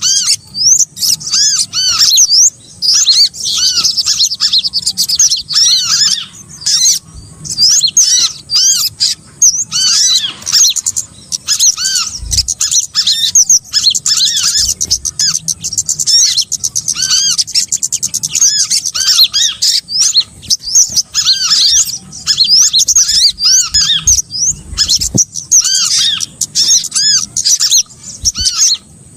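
Bird-luring recording of small songbirds: a dense, unbroken mix of many fast chirps, squeaks and trills overlapping at once, with only brief gaps.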